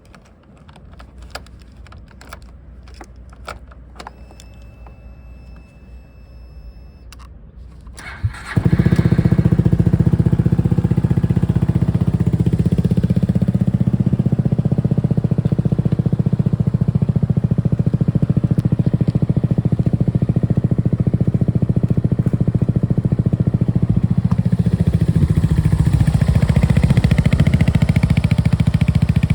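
Yamaha Maxam SG21 scooter's 250 cc single-cylinder four-stroke engine. First come a few faint clicks and a short steady electronic tone, then about eight seconds in the engine starts and settles into a steady idle.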